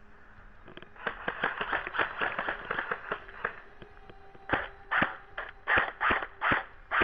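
Airsoft electric guns (AEGs) firing: a rapid string of sharp clicking shots about a second in, then a run of about seven louder single shots, spaced evenly, in the second half.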